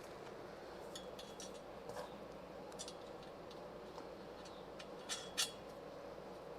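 Light metallic clinks and taps of steel engine-stand parts being jiggled into line for bolting, with two sharper clinks about five seconds in.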